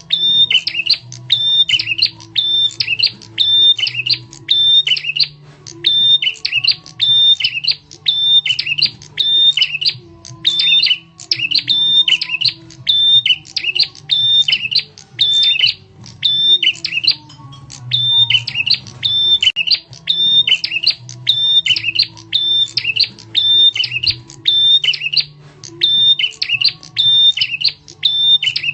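Prenjak tamu (a prinia) calling, as a bird-lure recording: loud, sharp notes repeated about twice a second in long runs broken by short pauses.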